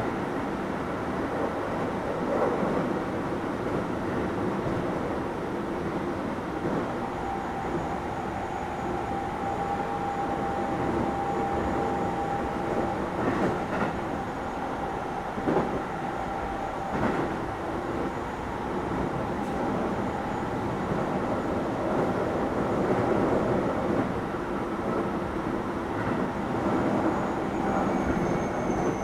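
Keio 7000 series electric train running: steady rolling noise with a few sharp clicks of the wheels over rail joints. A thin steady whine runs through the middle.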